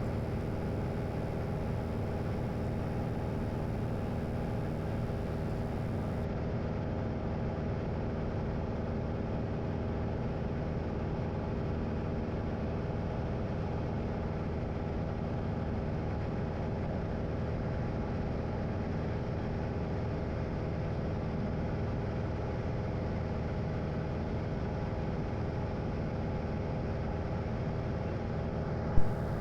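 Light aircraft's engine and propeller droning steadily in the cockpit during cruise, one even, unchanging hum.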